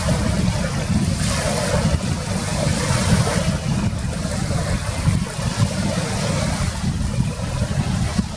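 Wind buffeting the microphone, a ragged low rumble, over a steady hiss of sea surf.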